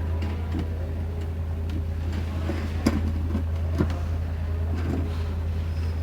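Light clicks and taps of small metal engine parts being handled during assembly of a two-stroke RC engine, with two sharper clicks about three and four seconds in, over a steady low hum.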